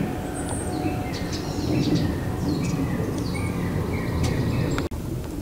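Several small birds chirping and calling in short, scattered notes over a steady low outdoor rumble.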